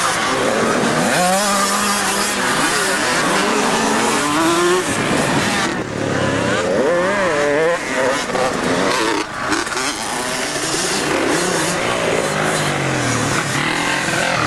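Several motocross bikes running on a dirt track, their engines revving up and falling back as they accelerate and shift, with the pitches of different bikes overlapping.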